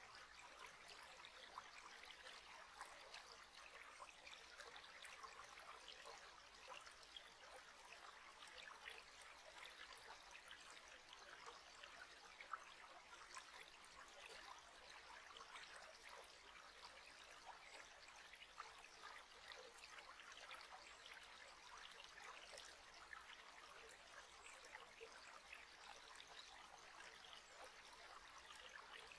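Faint, steady trickling water, like a small stream.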